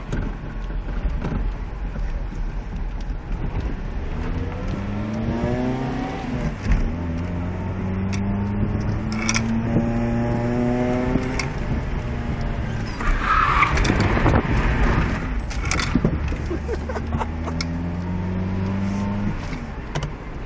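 Toyota Tercel's four-cylinder engine revving hard from inside the cabin, its note climbing several times, with tyres squealing briefly near the middle as the car drifts.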